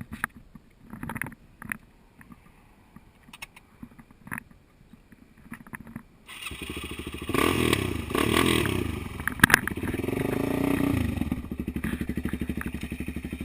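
Suzuki DR-Z400SM single-cylinder four-stroke engine starting about six seconds in, revved up and down a few times, then settling into a steady idle. Before it starts, only a few light clicks and knocks.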